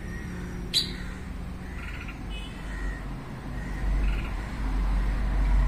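A few short, buzzy chirps from small birds, spaced a second or two apart. One sharp click comes about a second in, and a low rumble builds near the end.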